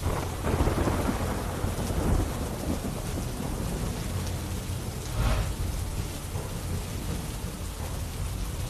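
Heavy rain pouring down steadily, with deep rumbles swelling near the start and again about five seconds in.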